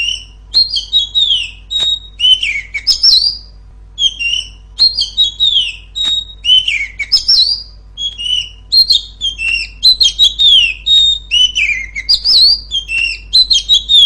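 Female Oriental magpie-robin (kacer) singing loud, clear phrases: quick whistles, falling slurred notes and a repeated steady high note, in runs broken by short pauses.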